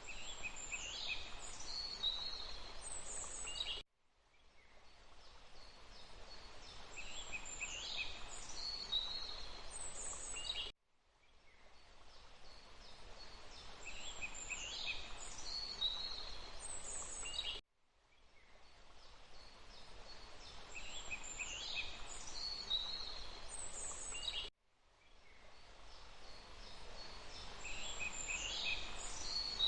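Birds calling over a steady background hiss of forest ambience. The same few-second recording repeats about every seven seconds, each time fading in and then cutting off abruptly.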